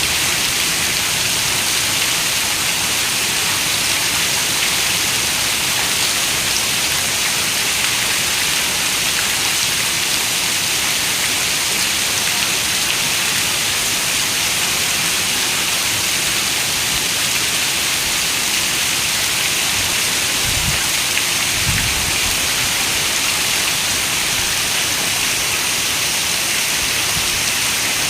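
Heavy rain falling steadily on a window: a dense, even hiss. Two brief low rumbles come about two-thirds of the way through.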